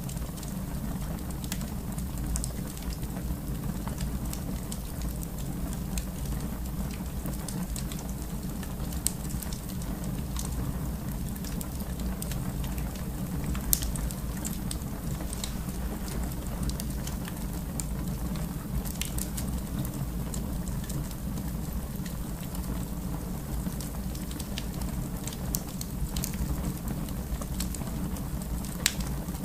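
Wood fire crackling in a fireplace: a steady low rumble of the flames with scattered small pops and snaps, and a few sharper pops about 9, 14 and 29 seconds in.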